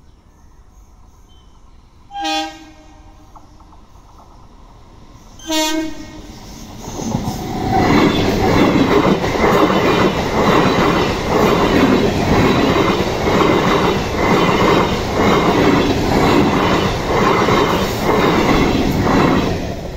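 Two short train-horn blasts about three seconds apart, then an Indian Railways electric multiple unit (EMU) passing over the crossing, its wheels clattering in an even rhythm over the rail joints for about twelve seconds. The clatter drops off near the end as the last coaches go by.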